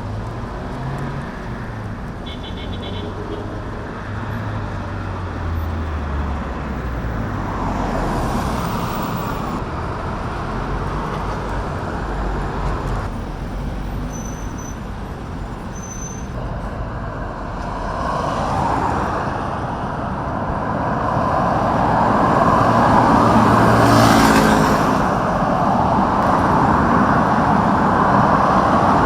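Road vehicles running, with a steady traffic hum and two vehicles swelling past, one about a third of the way in and one near the end.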